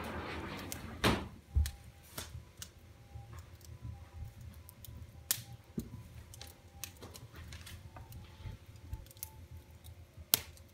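Wood fire in a fireplace crackling, with irregular small ticks and louder sharp pops about a second in, around five seconds and near the end; a brief hiss at the start.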